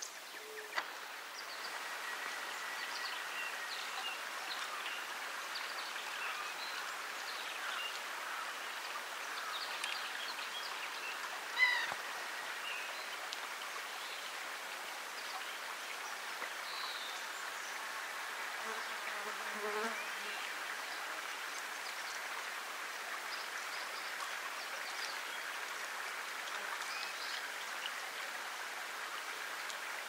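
Forest ambience of white-breasted nuthatch calls: a steady high-pitched background hiss with many faint, scattered bird chirps, and one short, louder call about twelve seconds in.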